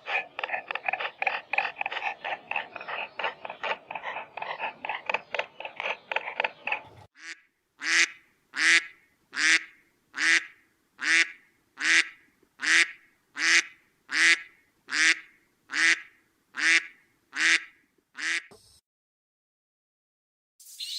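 Animal calls: a fast run of short, pitched calls, four or five a second, for several seconds. These give way to a steady series of about fifteen louder, evenly spaced calls a little under a second apart, which stop shortly before the end.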